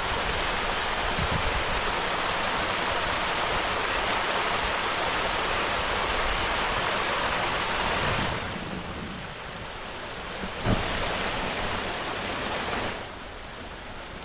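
Small waterfall, water rushing steadily. The sound falls off abruptly about eight seconds in, comes back briefly with a single knock about eleven seconds in, then falls off again near the end.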